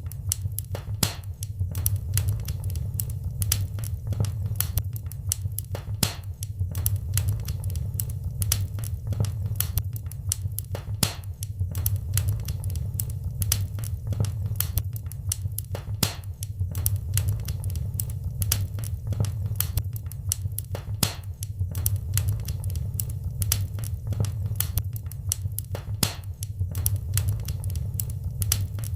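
Wood fire crackling in a fireplace: a steady stream of irregular sharp pops and snaps over a low, even rumble of the burning fire.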